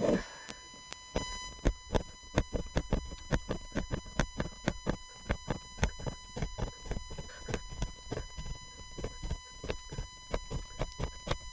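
Embroidery needle being pushed and pulled through fabric stretched taut, a steady run of light, irregular taps and clicks about three to four a second, over a faint steady high hum.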